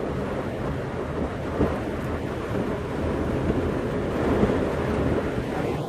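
Rain beating on the roof and windows of a car, heard from inside the cabin as a steady low rumble.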